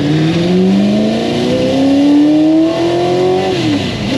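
Ford GT40 Mk I's V8 engine accelerating hard, heard from inside the cockpit: its pitch climbs steadily for about three and a half seconds, then drops sharply as the driver shifts up, and the engine pulls again at a lower pitch in the next gear.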